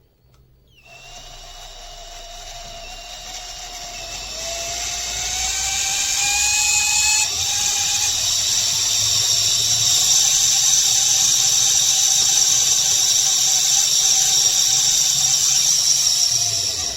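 A high-speed motor whining, climbing in pitch and loudness over the first several seconds as it speeds up, then holding steady before stopping near the end.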